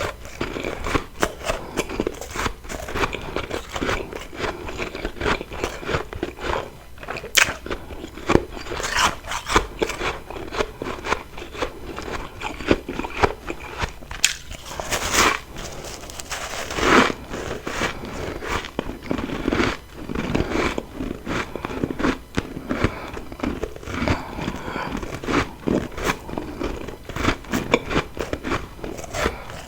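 Close-miked biting and chewing of refrozen humidifier freezer frost: dense, irregular crackling crunches as the ice breaks between the teeth, with louder crunches every few seconds.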